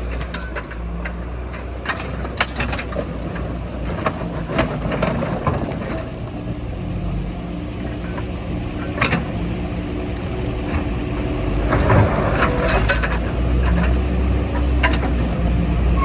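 Heavy diesel machinery running steadily, with scattered metallic clanks and knocks, the loudest about nine seconds in and again around twelve seconds in.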